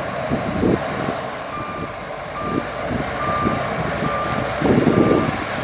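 Reversing alarm of a heavy earthmoving machine beeping a little more than once a second, starting about a second and a half in. Underneath it, a heavy engine runs with uneven surges and knocks, loudest near the end.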